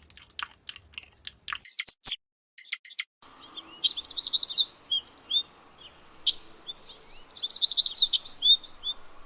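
A small bird chirping in quick runs of short high notes that sweep up and down, starting about three seconds in. Before that come a few seconds of sharp clicks.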